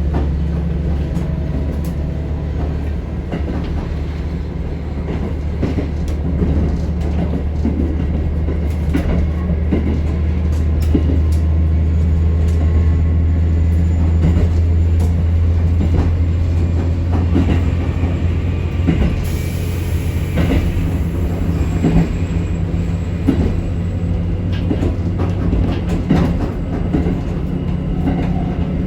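Dounan Isaribi Railway KiHa 40 diesel railcar running along the line: a steady low engine hum, with scattered wheel clicks over rail joints.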